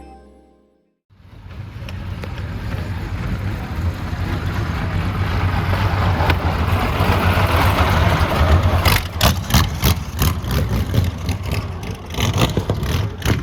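A car engine running with a deep rumble that builds up over several seconds. From about nine seconds in, a series of sharp knocks or bumps comes through.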